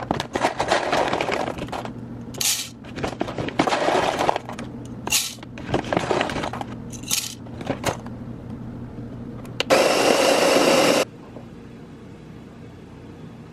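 Hard objects clinking, clattering and scraping in several irregular bursts, then a small electric motor runs loudly for about a second and a half and cuts off suddenly.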